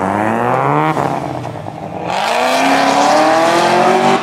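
A performance car's engine revving hard as the car accelerates. The pitch climbs for about a second, drops briefly, then climbs again steadily, with a loud rushing noise joining it about halfway through.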